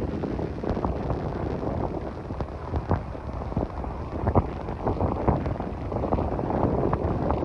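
Hurricane storm-band wind buffeting the microphone with heavy rain, a dense low rush broken by many irregular short knocks.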